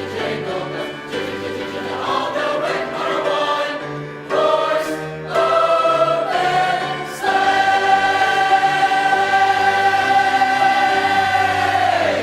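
High school choir singing, climbing in short steps to a long final chord that is held for about five seconds and released together.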